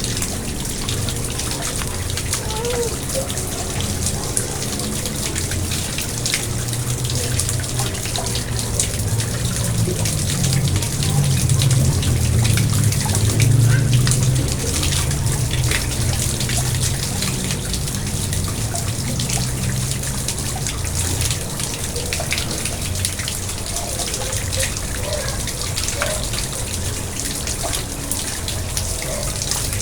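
Water in a garden pond trickling and splashing steadily.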